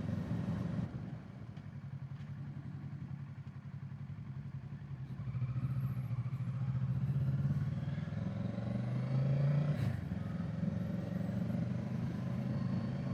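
Kawasaki Z650's parallel-twin engine running on the move, its note rising steadily from about five seconds in and then dropping suddenly near ten seconds before running on steady.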